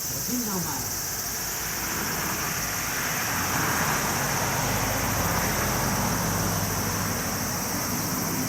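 Engine noise of a passing motor vehicle, swelling about three to five seconds in, over the steady high chirring of crickets.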